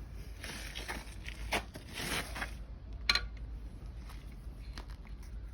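Metal scraping and handling noise as a bore gauge is moved and repositioned inside an engine cylinder bore, with a sharp click about a second and a half in and another about three seconds in, then a few faint ticks.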